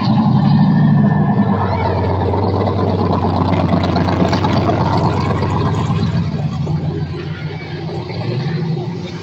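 A car engine running close by, steady, with a brief rise in pitch about eight seconds in as it is revved.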